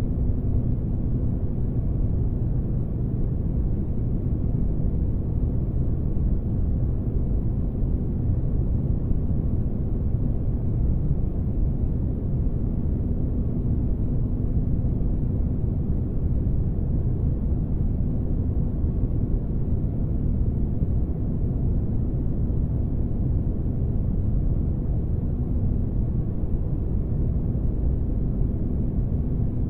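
Spaceship-interior ambience for sleep: a steady, deep rumbling noise with a faint low hum, which drops out for several seconds in the middle.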